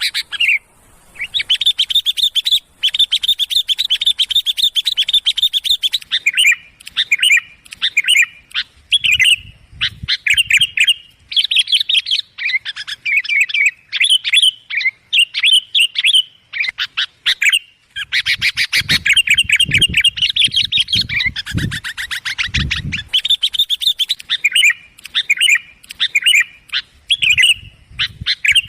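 Sooty-headed bulbul (kutilang) calls: loud, rapid chattering bursts of notes, almost without pause, as played as a lure call to draw in bulbuls. A few dull low thuds come in around the middle.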